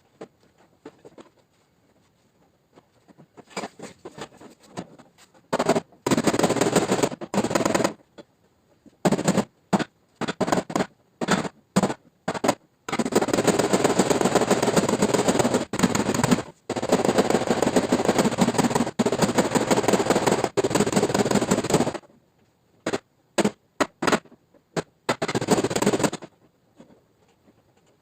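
Rapid, machine-gun-like tapping on the sheet metal of a Toyota RAV4 tailgate during paintless dent repair. It comes in bursts, some lasting several seconds, starting a few seconds in and thinning out near the end.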